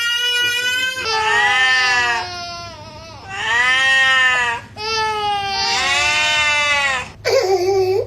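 A young child crying hard: a run of loud, long wailing cries, each rising and falling in pitch, with short breaths between them and a shorter, lower cry near the end.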